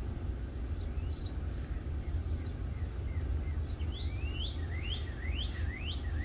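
A small bird chirping outdoors: scattered short high chirps, then a run of quick rising notes, about two a second, in the second half. A steady low rumble runs underneath.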